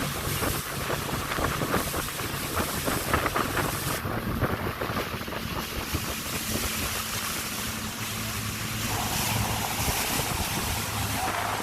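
Tour boat's engine running steadily under wind buffeting the microphone and water noise. The sound shifts abruptly about four and nine seconds in.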